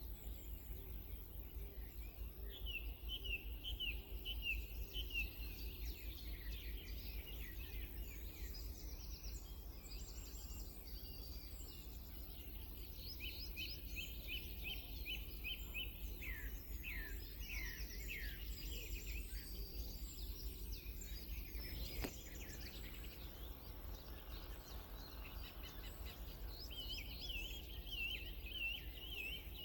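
Songbirds singing: phrases of quick repeated high chirps and trills, one after another, over a steady low rumble, with a single sharp click about two-thirds of the way through.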